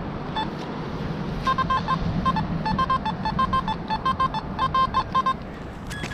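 Metal detector giving a quick run of short, identical beeps, the signal of a shallow metal target, which turns out to be a bottle cap. A single beep comes first, then the rapid beeping over a steady hum of traffic.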